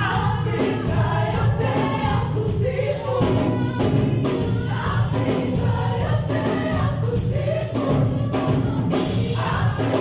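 A gospel choir singing with a live band, tambourine among the percussion.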